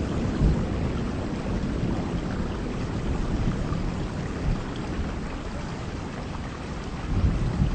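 Heavy rain falling steadily, with a low thunder rumble that dies away at first and swells again near the end.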